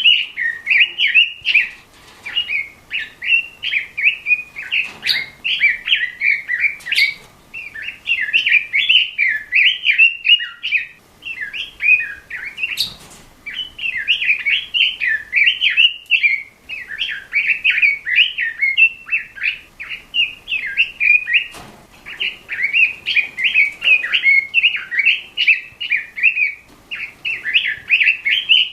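Red-billed leiothrix (Pekin robin) in full song: long runs of fast, rich warbling phrases, broken by brief pauses every few seconds.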